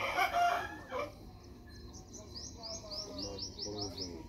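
A short, loud, harsh call in the first second, then a small bird chirping a quick run of rising notes, about six a second, in the second half.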